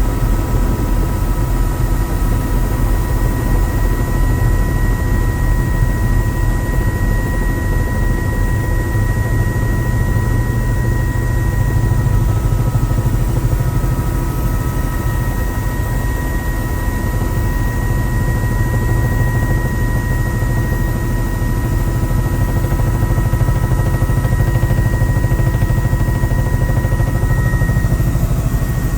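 Helicopter in flight heard from on board: a loud, steady drone of rotor and engine, with thin high whining tones held throughout.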